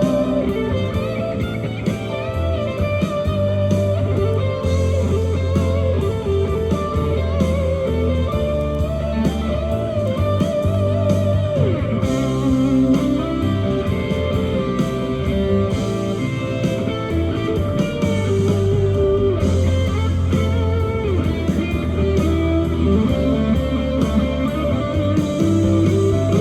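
Band music with no singing: a guitar-led instrumental break, the guitar melody bending between notes over a steady bass line and beat.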